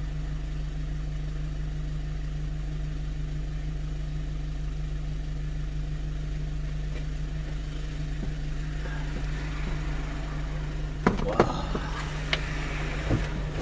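A 1-ton truck's engine idling steadily while stopped, with a few clicks and knocks near the end.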